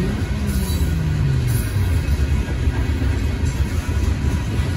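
Freight train of loaded coal hopper cars rolling past, a steady low rumble of wheels on the rails. A low hum falls in pitch over about the first second and a half.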